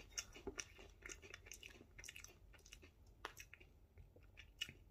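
A person biting and chewing a crunchy Cheeto: a run of faint, irregular crunches, with a few sharper ones.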